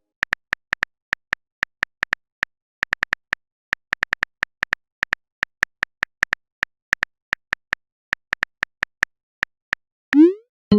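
Phone keyboard typing sound effect: a rapid, irregular run of light taps, a few each second, ending near the end with a short rising blip like a message being sent.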